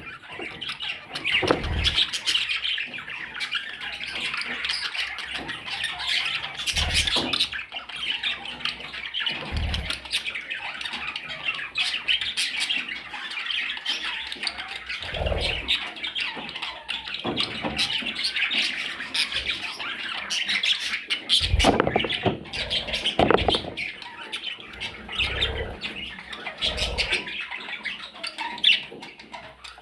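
Small pet parrots chattering and squawking continuously, a busy mix of high calls, with several short low thumps through it.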